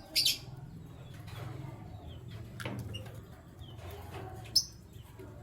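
Canaries giving short, sharp high-pitched chirps: two loud ones, just after the start and about four and a half seconds in, with fainter short notes between, over a steady low hum.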